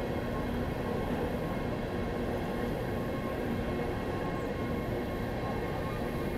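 Freight train running across a railroad bridge: a steady rumble with faint steady tones above it.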